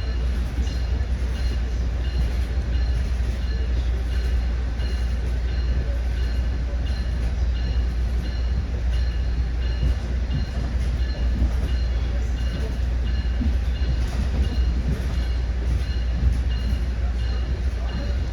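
Exo commuter train on the Mascouche line running between stations, a steady low rumble of wheels on rail with continuous running noise and faint high tones that come and go.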